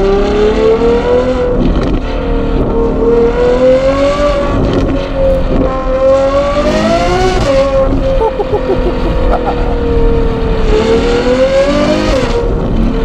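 Ferrari 812 GTS's naturally aspirated 6.5-litre V12 running through a Novitec sport exhaust under acceleration. The engine note climbs and drops sharply at each upshift, about four times, with a stretch of easing off in the middle.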